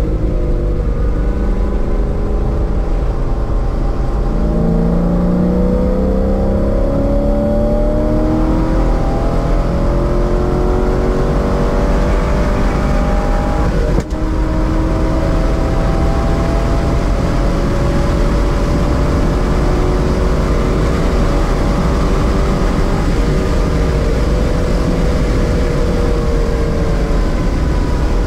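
1999 C5 Corvette's LS1 V8, breathing through long-tube headers and a catless X-pipe, heard from inside the car under hard acceleration: the engine note climbs steadily in pitch, drops briefly at a quick upshift about halfway, then climbs again. Wind and tyre noise run underneath.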